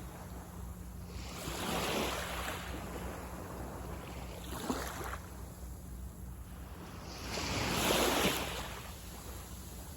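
Small waves breaking and washing up on a sandy beach, swelling and falling in turn, the loudest wave breaking about eight seconds in, with light wind on the microphone.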